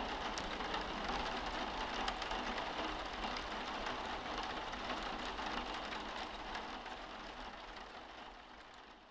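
Steady rain, with many small drop ticks through the hiss, fading out near the end.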